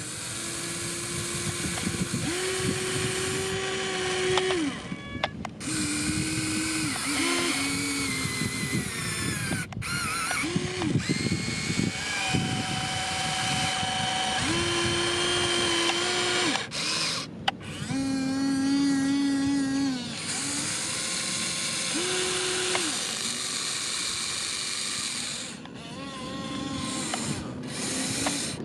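Farm machinery running under load: a dense mechanical noise with a whine that holds steady for a second or two, then steps up or down in pitch, broken by a few short dips.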